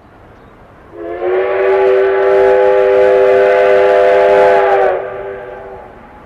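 Steam locomotive's whistle sounding one long steady blast of about four seconds, starting about a second in and stopping sharply near the end.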